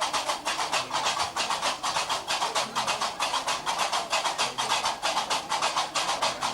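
Gnawa qraqeb (iron castanets) clacking in a fast, steady rhythm, several sharp metallic clacks a second.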